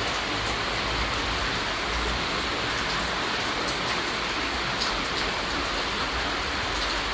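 Steady rainfall, an even hiss with scattered sharp ticks of individual drops.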